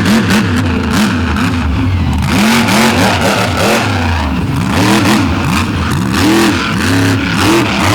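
Monster truck's big Vance-built engine revving hard and letting off again and again, its pitch swinging up and down in quick repeated surges.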